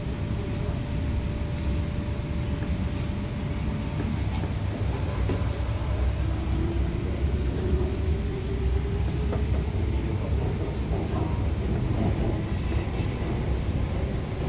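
MTR Tung Chung Line K-Train electric train heard from inside the car as it pulls away and gathers speed: a steady low rumble of wheels on track, with a motor whine that rises steadily in pitch from a little before halfway through.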